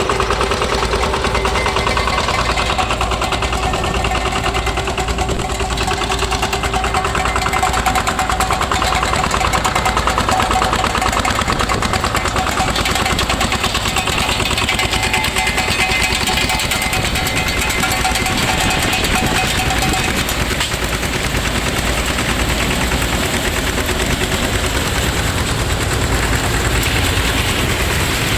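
VST Shakti 130DI power tiller's single-cylinder diesel engine running steadily under load, driving a groundnut thresher: a rapid, even diesel knock with the thresher's machinery running along with it.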